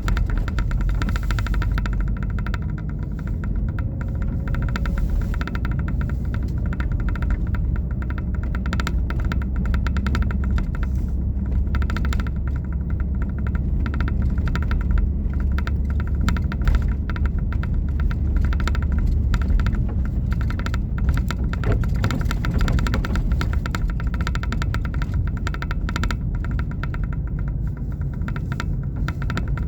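Steady low rumble with a dense crackling rattle over it, unchanging throughout.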